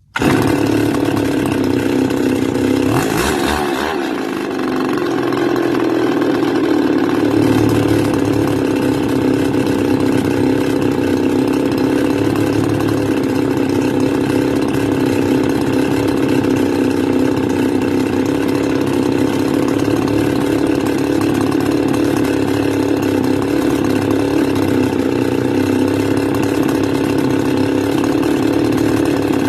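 Stihl FS280 brush cutter's two-stroke engine starts up abruptly and runs steadily at a raised idle, its idle speed screw just turned up another half turn, with a brief dip in level about three to four seconds in. This is the engine that stalls as it warms up, whatever the idle setting.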